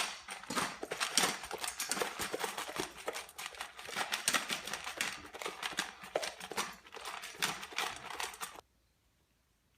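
A dog eating his food fast from his dish: a dense run of rapid clicks and crunches that cuts off suddenly near the end.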